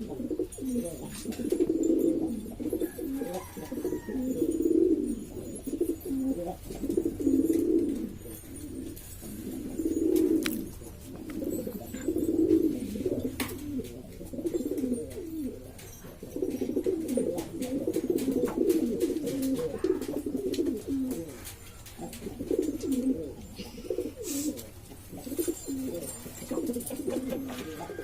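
Several domestic pigeons cooing at once, their low, throaty coos overlapping in repeated phrases with hardly a pause.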